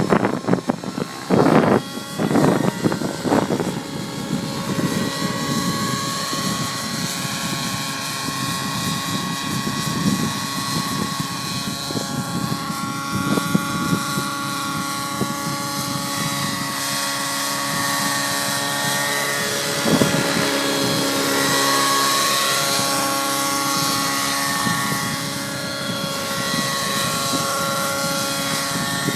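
Nitro-powered T-REX 700 RC helicopter flying: its glow engine and rotor give a steady whine of several tones that drift gently up and down with the throttle. Wind buffets the microphone in gusty rumbles during the first few seconds.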